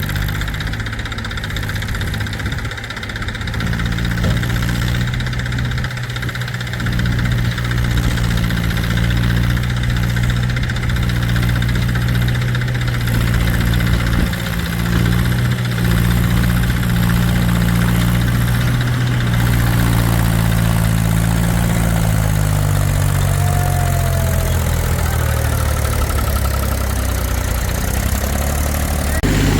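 Heavy diesel engine of a backhoe loader or tractor running steadily, its pitch shifting with load, sagging lower about two-thirds of the way through and picking up again near the end.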